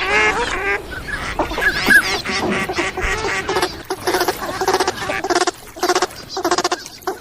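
Recorded lure calls of the waterfowl that Iraqi hunters call abu zalla or abu fasila: a fast, continuous run of duck-like calls, easing off briefly twice near the end.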